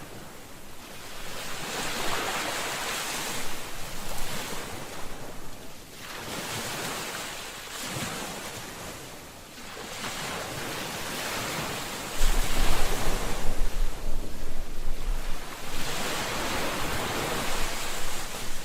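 Ocean waves breaking and washing on the shore, the surf swelling and ebbing every four seconds or so. About two-thirds of the way through, a louder low rumble joins in under the surf.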